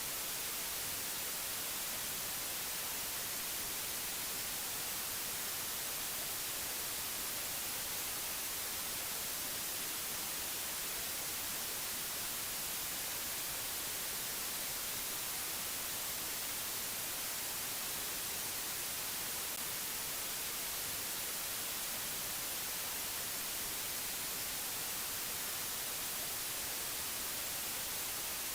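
Steady, unchanging hiss of white noise, brightest in the treble, with no other sound.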